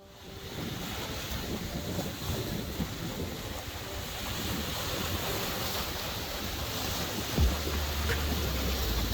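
Sea waves washing onto a beach, with wind buffeting the microphone. About seven and a half seconds in there is a low bump, and the wind rumble grows heavier.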